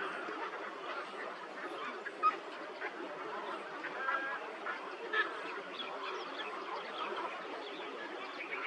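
Many birds calling over one another in a dense, busy chatter of short calls, with a brief clear whistled note about four seconds in and a sharp click a little after two seconds.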